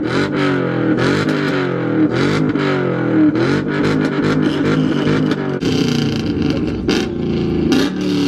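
Car engine revved over and over in quick blips, its pitch falling after each one.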